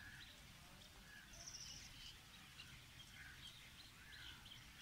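Faint, scattered bird chirps and short calls over a quiet background, with one higher buzzy chirp about a second and a half in.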